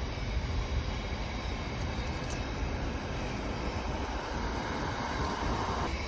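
A train running past on the line: a steady rumble, with a higher hum that builds over the second half and cuts off near the end.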